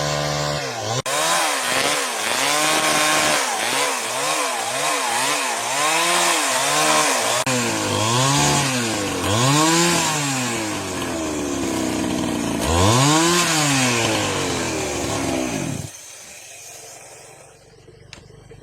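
Two-stroke chainsaw engine revving up and down again and again, its pitch rising and falling about once a second. It cuts off near the end.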